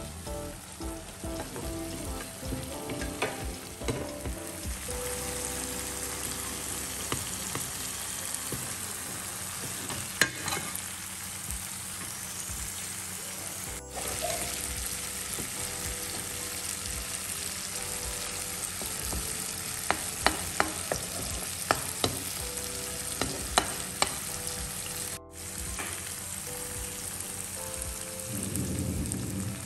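Egg masala sizzling and frying in a nonstick pan, with a ladle stirring the thick gravy. A handful of sharp clicks of the ladle against the pan stand out, one about a third of the way in and several in quick succession past the middle.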